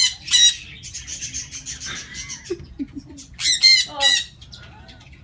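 Several small pet parrots squawking harshly, two loud squawks at the start and another burst of loud squawks about three and a half seconds in, with softer chattering and chirps between.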